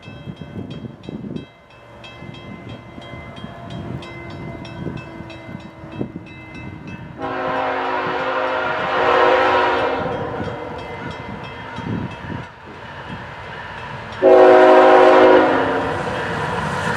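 Air horn of a CN GE ET44AC diesel-electric locomotive leading a four-engine train: one long blast about seven seconds in and a shorter, louder blast near the end, over the rising rumble of the approaching locomotives.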